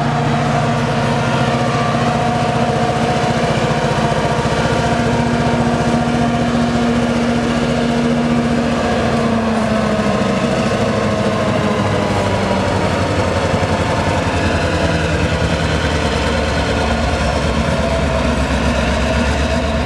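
Soo Line GP38-2 diesel locomotive's roots-blown 16-cylinder EMD 645 engine running loudly and steadily, its note dropping slightly about halfway through.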